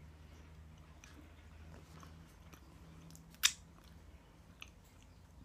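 Soft, close-up mouth sounds of chewing a pizza pocket and licking the fingers, with faint small clicks and one sharp click a little past halfway.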